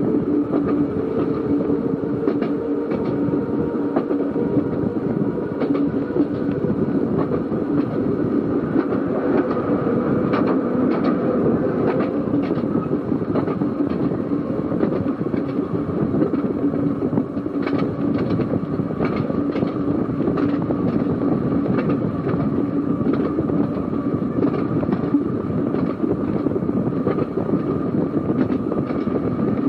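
Seaton Tramway narrow-gauge electric tram running along the track, a steady motor and gear whine over the rumble of the wheels, with scattered clicks from the rail joints.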